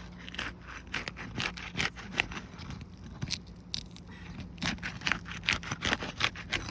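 A roof snake being worked under asphalt shingles, scraping and crackling in quick irregular strokes as the shingles' sealant strips tear loose.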